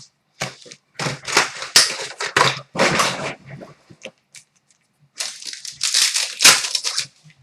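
Plastic wrapper of a hockey card pack being torn open and crinkled, with irregular crackling rustles in two clusters and a short pause between them.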